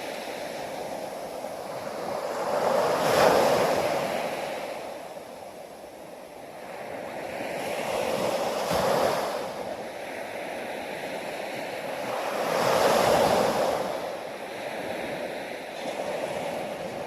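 Ocean waves breaking on the shore, three waves in turn, each swelling to a hissing crash and draining away over a few seconds.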